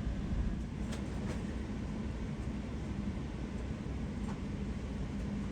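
Steady low rumble inside an Airbus A380's cabin on the ground after landing, with two faint clicks about a second in.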